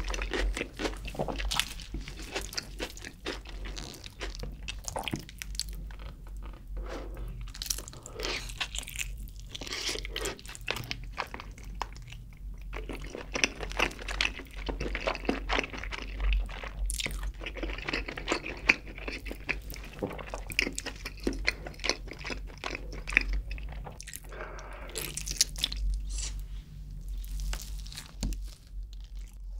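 Close-miked eating of a sauced Jamaican-style grilled whole chicken leg: crunchy bites and wet chewing with lip smacks, in quick irregular clicks throughout.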